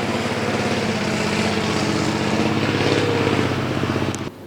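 ZIL-137B heavy truck's engine running, its pitch lifting a little about three seconds in; the sound cuts off abruptly near the end.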